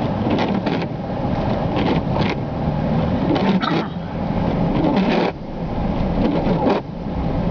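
Inside a four-wheel-drive vehicle driving on snowy roads: a steady rumble of engine and road noise, broken by short hissing swishes, often in pairs.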